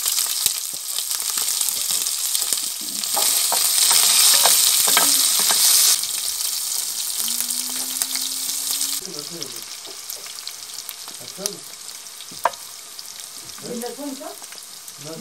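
Chicken skin, ginger and onion sizzling in hot oil in a cast-iron pan over a wood fire, with crackling spatter and a wooden spoon stirring. The sizzle is loudest a few seconds in, then drops away in two steps in the second half.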